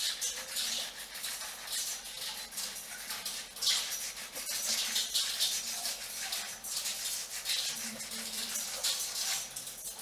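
Fingers scrubbing a shampoo-lathered scalp and hair, making rhythmic scratchy, crackly rubbing strokes about once a second, over a steady hiss of heavy rain on a metal roof.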